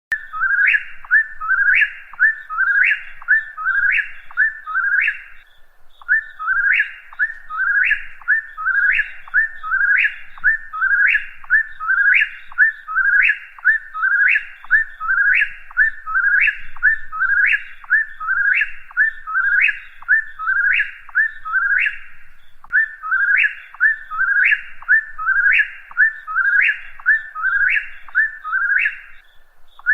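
A whip-poor-will singing its repeated whistled 'whip-poor-will' phrase, about one a second, each ending in a sharp upward note. The phrases come in long runs broken by brief pauses.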